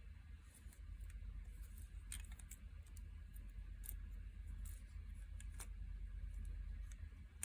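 Faint, scattered light clicks and taps of small carburetor parts being handled and fitted, over a steady low hum.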